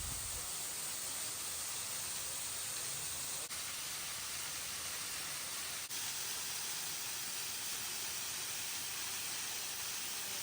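Waterfall: a steady rush of falling water, broken by two very brief dropouts.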